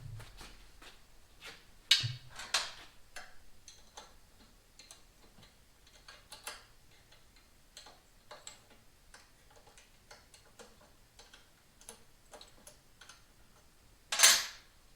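Hand tools working on a motorcycle's front end: scattered light clicks and taps, two louder knocks about two seconds in, and a short, louder clatter near the end.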